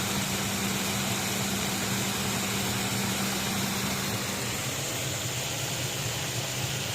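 Turgo micro hydro turbine running: a steady hiss of the water jet spraying onto the wheel, with a low hum from the washing-machine motor used as a direct-drive generator. The hum fades out about four seconds in.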